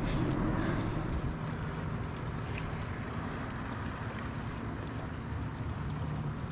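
Steady wind noise buffeting the microphone, a continuous rushing with a low rumble.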